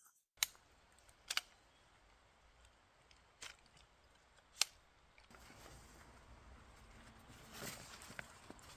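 A folding camp chair being put together: four faint, sharp clicks spread over the first five seconds, then soft rustling and small knocks near the end.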